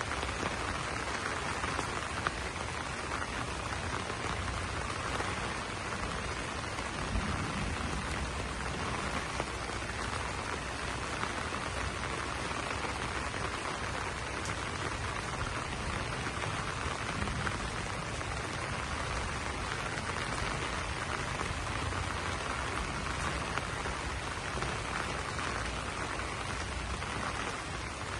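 Steady rain falling on banana leaves, an even hiss of drops with no let-up.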